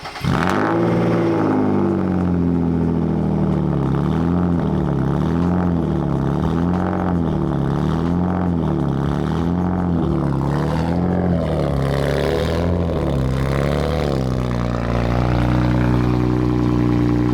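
BMW E36 engine, on its old exhaust, starting up. Its pitch then rises and falls in a regular wave a little over once a second, before settling to a steady, slightly louder note near the end.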